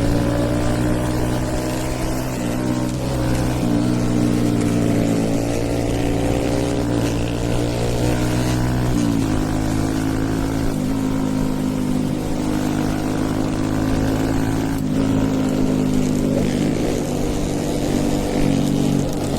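Hero Eco 150 motorcycle's single-cylinder engine with a stage 2 tune, running steadily under the rider. Its pitch shifts a few times, dropping clearly about nine seconds in, and a fainter note glides up and down partway through.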